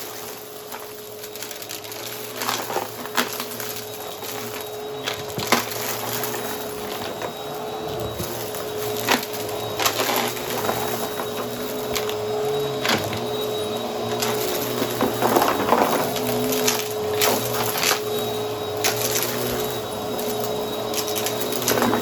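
Vacuum cleaner with its brushroll running, a steady motor whine under irregular crunches and sharp clicks of debris being sucked up.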